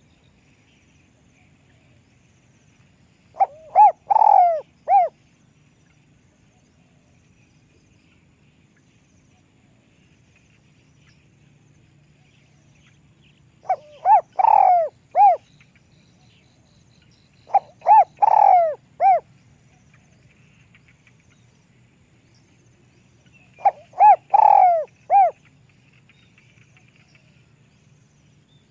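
Spotted dove cooing with a high, thin voice. There are four phrases several seconds apart, each a couple of short coos running into a longer coo and ending on a short final note.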